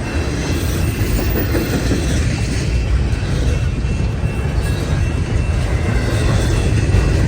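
A long freight train's cars rolling past on the track in a steady, continuous rumble.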